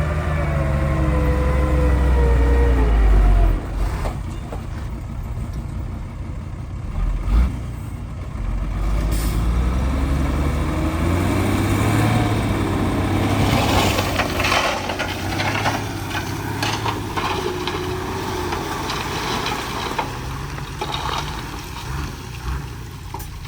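Heavy-equipment diesel engines running, their pitch falling over the first three seconds and rising and falling again later, with a thump about seven seconds in and clattering around the middle.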